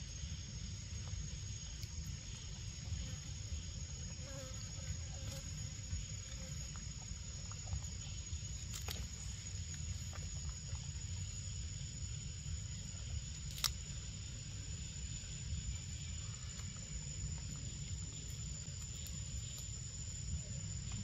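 Insects calling in a steady high-pitched drone, over a low rumble, with two sharp clicks, one about nine seconds in and one about fourteen seconds in.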